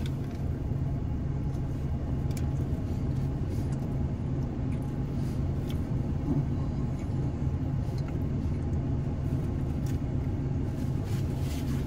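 Steady low hum of a car's engine idling, heard from inside the cabin, with a few faint clicks.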